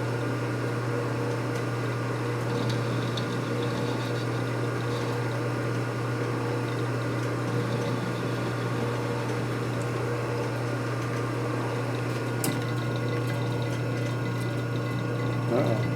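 A shop machine's electric motor running with a steady hum. One sharp click about twelve seconds in.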